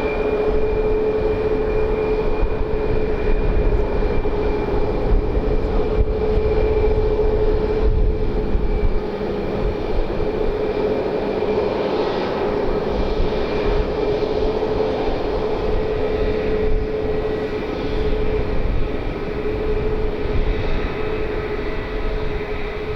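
Airliner engines running close by: a loud, steady rushing noise with a steady whine.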